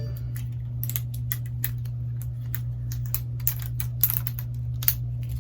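Irregular light clicks and ticks of hands working small plastic phone parts, with a couple of sharper clicks about four and five seconds in, over a steady low hum.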